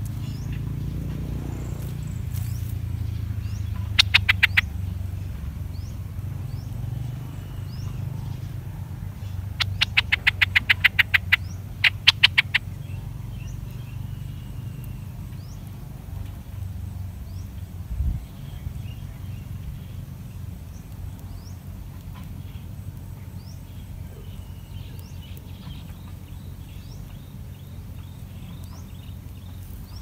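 Birds chirping with short high notes. Twice there is a quick run of sharp, evenly spaced clicking notes, briefly about four seconds in and again for a few seconds from about ten seconds in. A steady low rumble runs underneath, with a soft thump near the middle.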